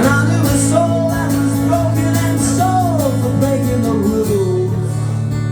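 Acoustic guitar music with steady held chords under a melody line that slides downward in pitch about halfway through.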